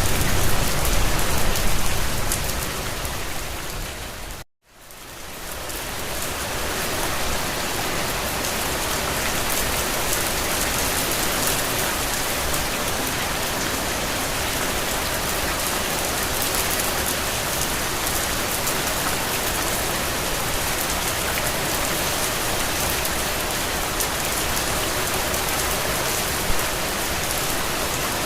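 Steady rain falling, an even hiss of drops. About four seconds in, it fades briefly to silence and then fades back in. After the gap it is steadier, with less low rumble than before.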